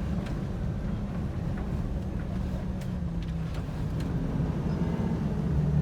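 Steady road and engine rumble heard from inside a moving vehicle's cabin, with a few faint ticks.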